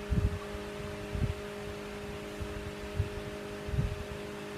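Steady machine hum in a machine shop, with a few soft low thumps from handling the work and tools, about four in all.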